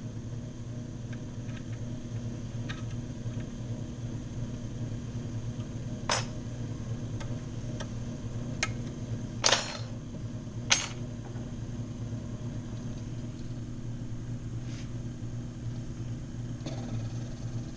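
Electric motor of a key-cutting machine running with a steady hum. Four short sharp metal clicks come in the middle, the loudest a little before halfway.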